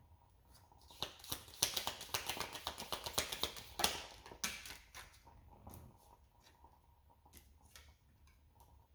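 Oracle cards being shuffled and handled: a quick run of light clicks for about three seconds, then scattered single clicks.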